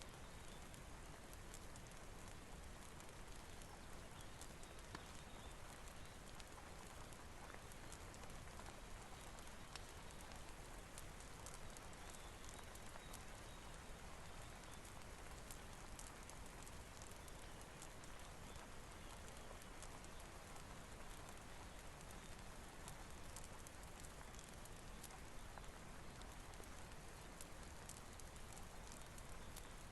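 Faint, steady rain with a wood fire crackling in small, frequent clicks.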